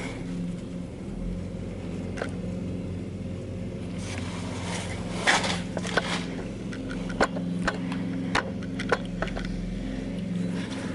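Scattered clicks, knocks and light scrapes of hand work on the motorcycle's carburettors while they are drained, over a steady low hum.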